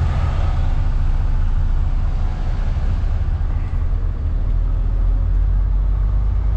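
MAN truck's diesel engine running steadily, a deep low drone with a haze of road and cab noise over it.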